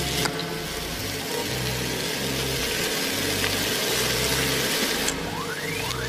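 Shrimp sizzling in butter sauce in a stainless steel skillet while being stirred with a fork, under background music with a deep bass line.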